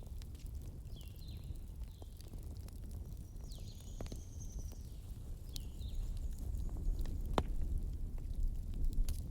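Wood campfire crackling, with sharp pops now and then over a low steady rumble. Short high bird chirps that slide downward come and go over the fire.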